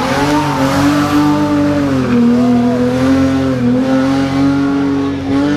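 Rally car engine held at high revs under load, heard from the onboard camera. Its pitch dips briefly about two seconds in, then holds steady.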